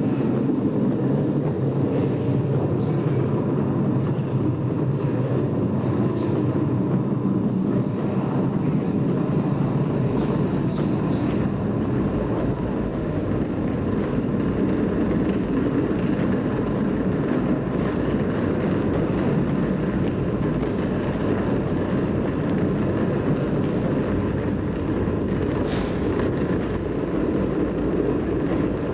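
Rocket launch roar from a recorded Apollo-era lift-off, played through a presentation's loudspeakers: a loud, steady rumble that grows deeper about ten seconds in.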